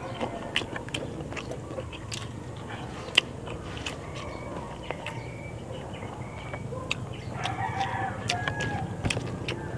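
Close mouth sounds of a man eating rice and fish with his fingers: chewing and scattered sharp wet clicks of lips and fingers, the loudest about three seconds in. Chickens in the background, a rooster crowing near the end.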